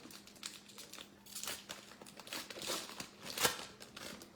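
Trading-card pack wrapper being torn open and crinkled by hand: a run of uneven rustles, with the sharpest crackle about three and a half seconds in.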